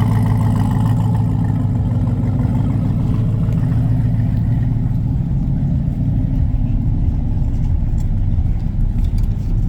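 A car engine running steadily with a low hum.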